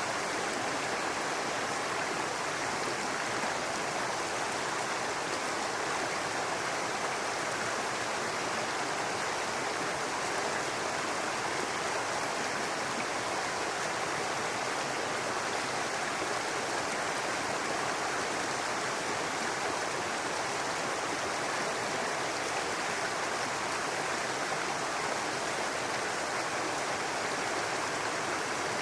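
Brook flowing over rocks: a steady babbling rush of water.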